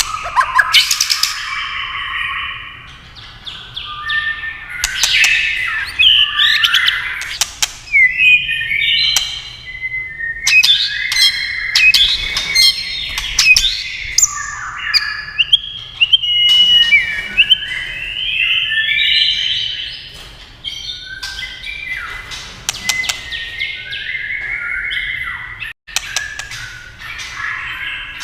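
White-rumped shama singing a continuous, varied song of whistled phrases that glide up and down in pitch, broken by many sharp clicking calls.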